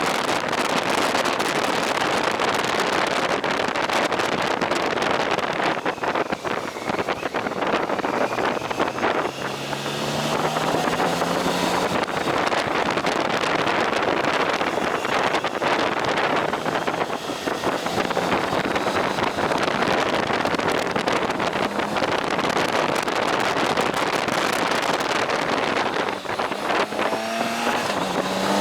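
Motorcycle on the move, with steady wind rushing over the microphone. The engine can be heard rising in pitch as it accelerates, about ten seconds in and again near the end.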